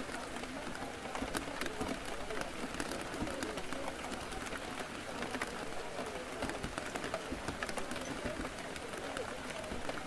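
Coffee-shop ambience: rain tapping on a window, heard as many small scattered ticks over a steady hiss, with a low murmur of background chatter.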